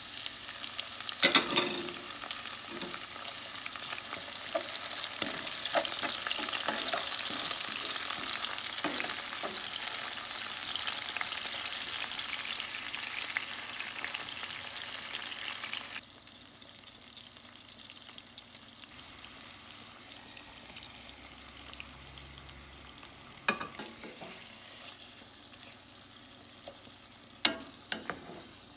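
Chopped tomatoes, garlic and onion sizzling in hot oil in a pan while being stirred with a wooden spatula. About sixteen seconds in the sizzling drops suddenly to a quieter level, and a few sharp knocks of the spatula or food against the pan stand out, near the start and twice near the end.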